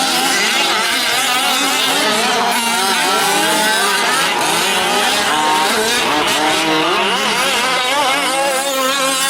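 Several 5th-scale gas RC trucks' small two-stroke engines racing together, their overlapping pitches rising and falling as they rev and back off.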